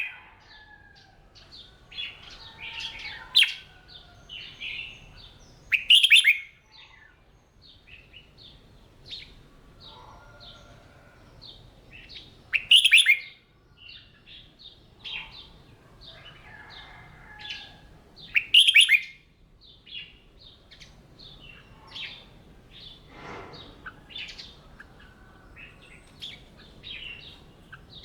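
Red-whiskered bulbuls singing: a loud song phrase comes about every six seconds, with many shorter, softer chirps in between.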